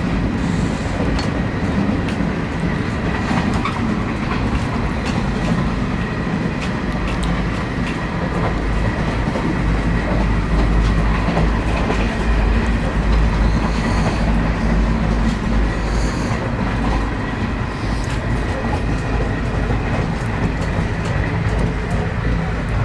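Rumble and clickety-clack of an ICF passenger coach running on the track, heard from inside the coach, with scattered sharp clicks and a faint steady whine over a steady low rumble.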